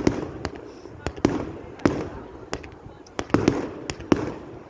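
Fireworks display: a rapid, irregular series of sharp bangs from exploding shells, about a dozen in under five seconds.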